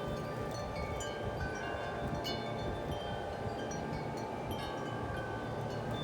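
Several large wind chimes ringing in gusty wind, many overlapping tones struck again and again and left to ring on. Wind rumbles low on the microphone underneath.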